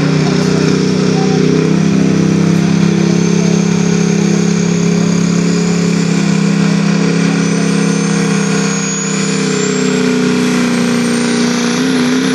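GMC diesel pulling truck under full load, its engine running hard and steady, with a high turbo whine that slowly climbs in pitch.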